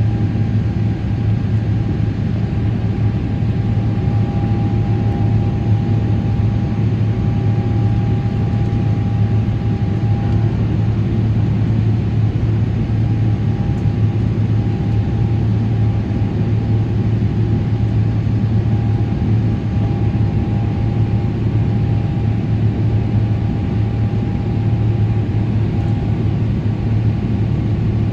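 Steady cabin drone of a Boeing 777-300ER, its GE90 engines and the airflow running evenly, with a strong low hum and a faint high whine over it.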